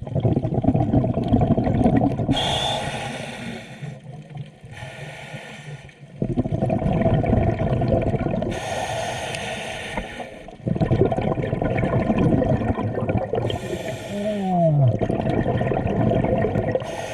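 Scuba diver breathing underwater through a regulator: three slow breath cycles, each a rush of exhaled bubbles with a shorter hiss of inhaled air.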